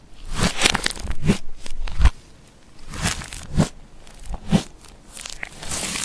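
Glossy slime being mixed and squished by hand, giving irregular sticky crackles and pops at uneven intervals.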